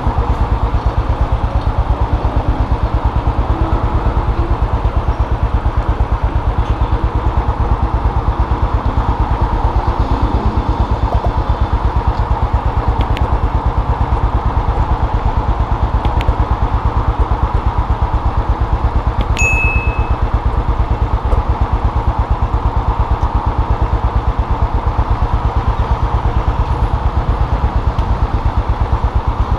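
Custom motorcycle engine running at a steady speed, heard from the bike while riding, with an even, rapid firing pulse throughout.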